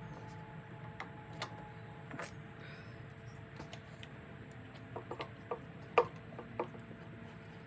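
Scattered light clicks and taps of tools and small engine parts being handled while working on a Stihl BR340 leaf blower, with a quick run of clicks and knocks about five seconds in, the loudest about six seconds in, over a steady low hum.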